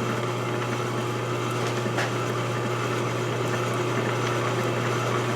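A lathe running at steady speed with a constant motor hum, spinning a freshly chucked small part so it can be checked for running true and centred.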